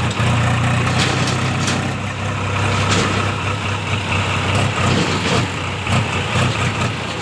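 Swaraj 834 XM tractor's three-cylinder diesel engine running steadily.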